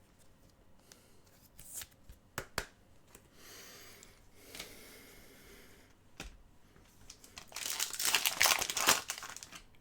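Trading cards being handled and shuffled, with a few light clicks and a soft rustle, then a louder stretch of pack wrapper crinkling and tearing near the end.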